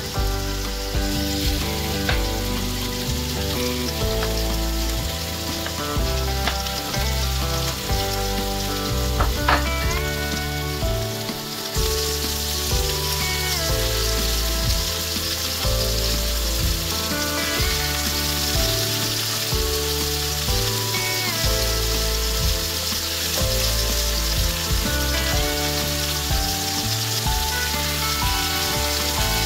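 Pieces of chicken mince sizzling in a hot frying pan and being stirred with a spatula. The sizzle grows louder about twelve seconds in. Background music plays throughout.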